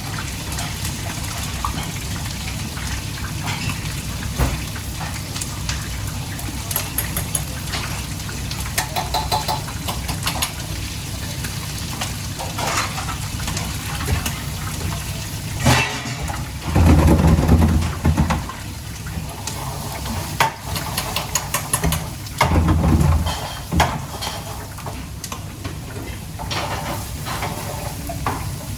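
Kitchen work sounds: a steady low hum under scattered clinks of utensils and pans, with two louder rushing stretches of a second or so, about halfway through and again a few seconds later, like water being poured or run.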